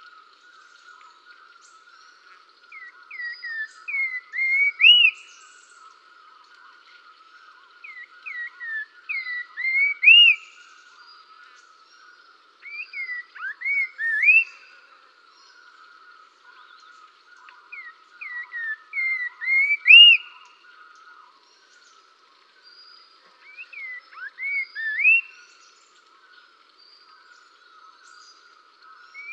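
A songbird repeating a phrase of short rising whistled notes about every five seconds, each phrase building to its loudest note at the end, over a steady high-pitched chirring.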